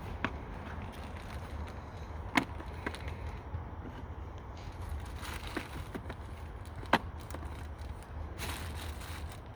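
Scattered plastic clicks and knocks from the cabin air filter cover and glove box being refitted behind the dashboard, two sharper snaps about two and a half and seven seconds in, over a steady low hum.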